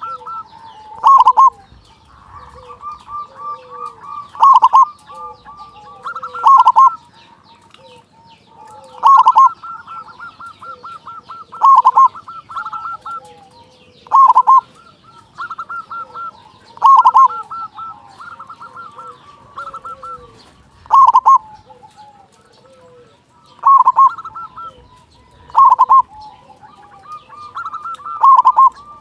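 Zebra dove (perkutut) cooing in full voice: loud coo phrases repeated about every two to three seconds, with quieter rapid notes between them.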